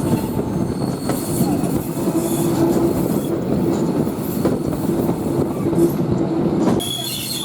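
Train rolling along the track: a steady rumble of wheels on rails, with a wheel tone coming and going. Near the end the rumble eases and a high squeal comes in.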